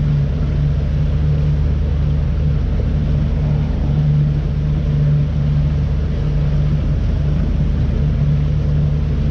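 Boat motor running steadily while the boat is underway, a constant low drone with a deep hum.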